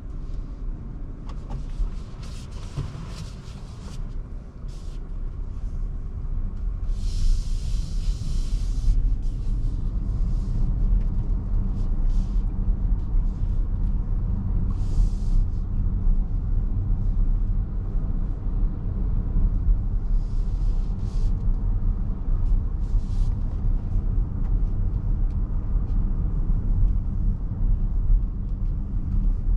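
Low, steady road and tyre rumble inside a Mercedes-Benz GLB350 on the move, growing louder over the first several seconds as the car gathers speed. Brief bursts of hiss come and go, the loudest about seven to nine seconds in.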